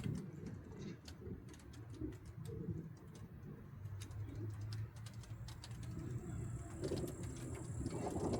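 A pigeon cooing in low, irregular phrases, with scattered light ticks of dripping rain.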